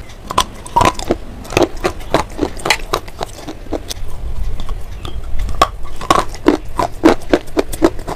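Close-up crunching of a chalky slate pencil being bitten and chewed, a rapid run of brittle snaps and crackles, several a second.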